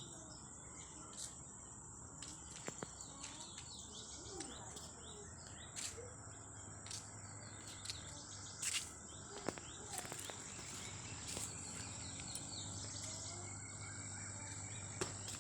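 Insects trilling as a steady high-pitched drone, with scattered short clicks and a few faint bird chirps.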